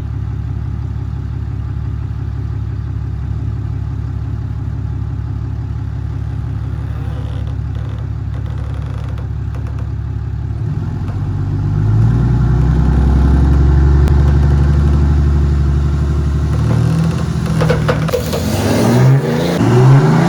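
Ram 3500 pickup truck engine idling steadily, then revving up about eleven seconds in and holding high under load as the trucks pull against each other, its pitch stepping up and down over the last few seconds.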